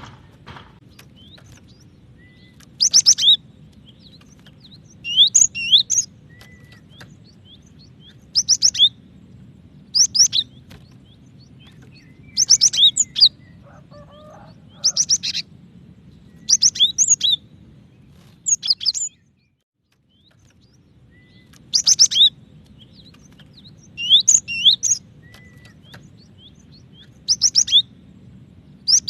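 Female cinereous tit calling for a male: short bursts of rapid, high chirping notes repeated every couple of seconds. A steady low hum runs underneath, and the sound cuts out briefly a little past the middle.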